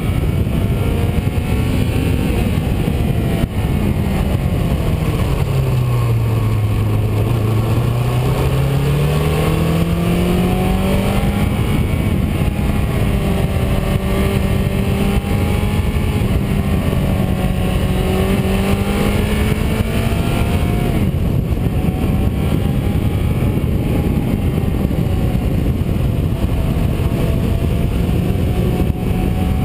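A car engine heard from on board while driving. Its pitch drops about six seconds in as the car slows, climbs again, then holds fairly steady. Steady road and wind noise runs underneath.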